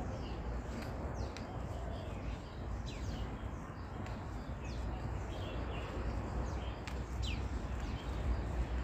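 Birds chirping in the surrounding trees: short, quick calls that slide downward, scattered every second or so, over a steady low rumble.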